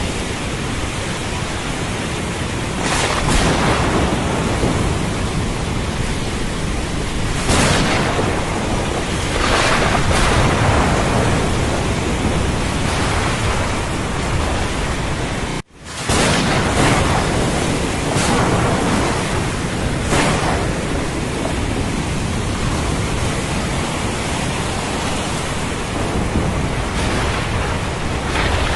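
Thunderstorm ambience: steady rain hiss with several rolling swells of thunder. The sound drops out sharply for a moment about halfway through, then comes straight back.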